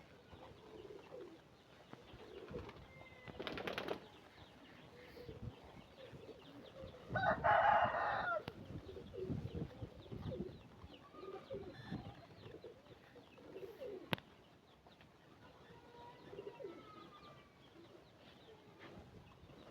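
Pigeons cooing, with other birds calling faintly throughout. A louder bird call lasts about a second and a half, about seven seconds in, and a single sharp click comes near the fourteen-second mark.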